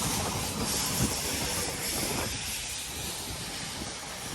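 Steam locomotive giving off a steady rushing hiss of steam, which thins out about two seconds in.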